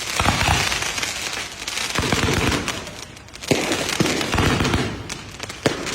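Multi-shot fireworks cake firing: several sharp bangs a second or so apart, with crackling and hissing in between.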